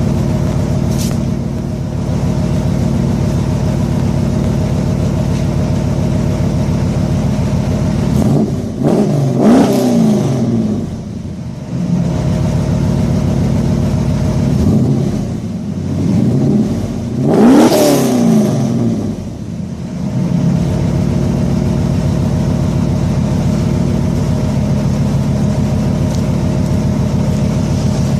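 1994 Camaro Z28's LT1 V8 idling through Pacesetter long-tube headers and Magnaflow mufflers, revved up and let fall back to idle twice, about eight seconds in and again about fifteen seconds in.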